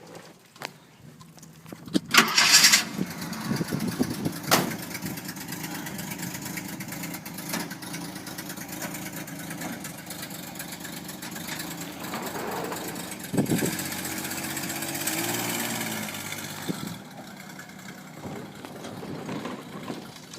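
1964 Ford Econoline pickup's engine cranked and started about two seconds in, then running steadily. It is revved about two-thirds of the way through, pitch rising, and drops back to a quieter idle near the end.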